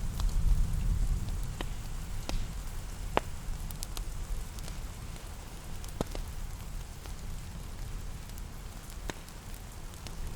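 Rain ambience under a crackling wood fire: a steady rain hiss and low rumble, stronger in the first second or so, with sharp pops and crackles from the fire every second or two.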